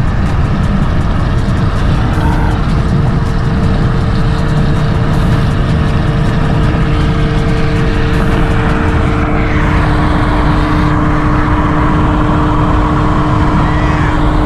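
Honda Civic Type R driving at freeway speed: a steady low rumble of road and wind noise with the engine's drone, and two steady held tones that come in about two seconds in and later on.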